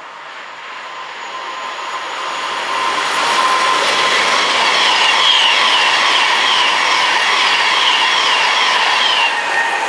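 Virgin Class 390 Pendolino electric train passing through at speed: a rush of wheels on rail and air that builds over the first few seconds as it approaches, then stays loud as the coaches go by, with a steady whine underneath and a repeating rhythmic pattern in the wheel noise.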